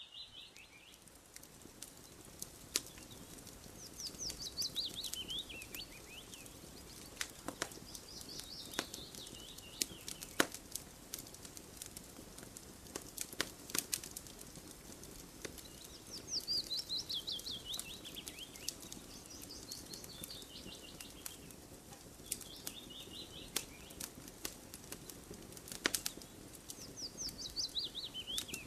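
Campfire crackling, with sharp irregular pops over a steady hiss. A songbird repeatedly sings a fast trill that falls in pitch, each song lasting a second or two and coming every few seconds.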